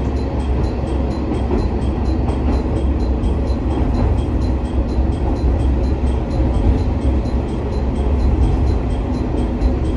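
Interior running noise of a JR West KiHa 47 diesel railcar on the move: a steady deep rumble of the diesel engine and wheels on the track.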